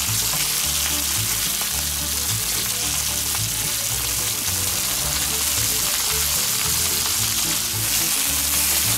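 Bacon-wrapped fish sticks frying on a hot wood-fired fire plate, with a steady sizzle of rendering bacon fat as tongs move them about.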